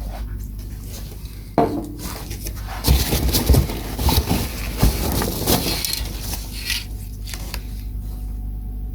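Aerosol cans of nitro primer and lacquer being handled and set down, giving several sharp knocks and clinks over a steady low hum, quieter near the end.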